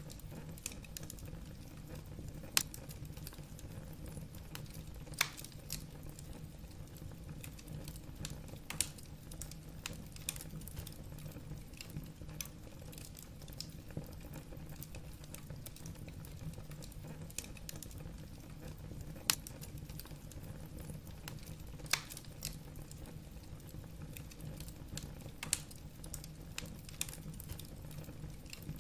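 Wood fire burning in a fireplace, crackling: a steady low rumble with scattered small snaps and a handful of louder pops a few seconds apart.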